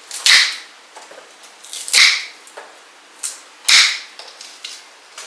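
Dahlia tuber clumps being cut apart: three sharp snaps about a second and a half apart, with a fainter one just before the last.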